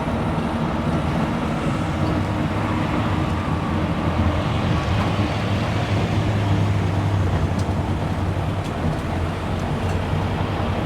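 Tuk-tuk engine running steadily with road and wind noise, heard from the passenger seat as it drives through town; the engine hum grows a little stronger about halfway through.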